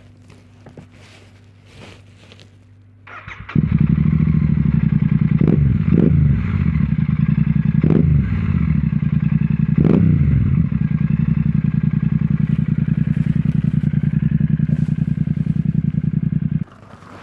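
Royal Enfield 650 parallel-twin engine through a Rhino Racing V4 Grenade slip-on exhaust, started about three seconds in, given four quick throttle blips, then left idling until it is switched off suddenly near the end.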